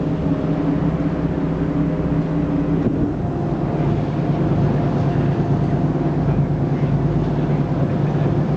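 Canal tour boat's engine running steadily underway, a low hum whose note shifts about three seconds in.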